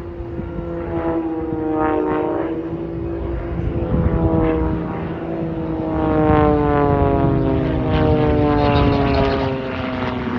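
Propeller aerobatic planes' piston engines and propellers running hard overhead. The drone is steady at first, then from about halfway the pitch drops steadily as the aircraft pass.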